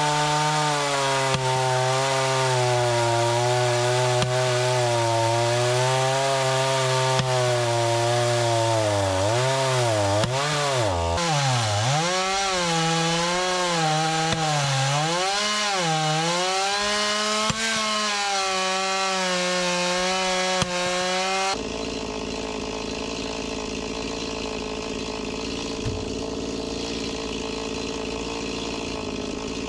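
Gas chainsaw cutting into a pin oak round: the engine runs at a steady pitch, then repeatedly dips and recovers as it bogs under the load of the cut. About two-thirds of the way through the sound changes abruptly to a quieter, steady engine hum.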